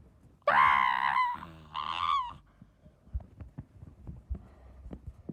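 Two long, wavering honk-like cries in the first half, followed by a few faint knocks.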